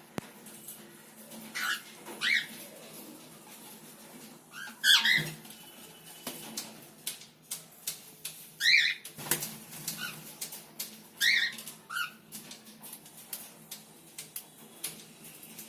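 Cockatiels giving short chirping calls every few seconds, some in quick pairs, over scattered clicks and rustles.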